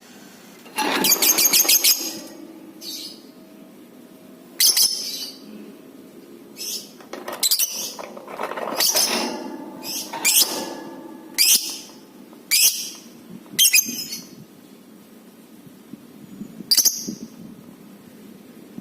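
Lovebird calling with sharp, high-pitched shrieks: a quick chattering run about a second in, then single short calls about once a second, spaced irregularly.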